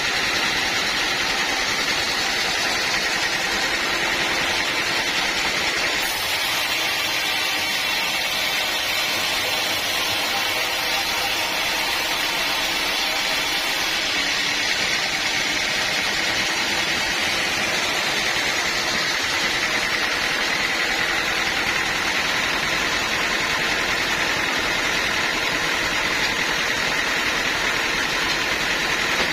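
Sawmill machinery running with a steady, unbroken noise that does not change for the whole stretch.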